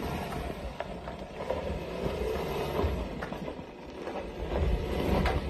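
Mercedes-Benz X250d pickup's diesel engine working under load as the four-wheel-drive truck climbs a steep offroad slope, a low rumble with a few knocks. The rumble eases about four seconds in and then builds again.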